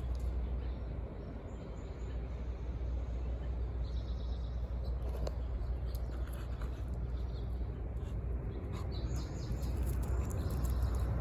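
Outdoor ambience: a steady low rumble with birds chirping briefly now and then.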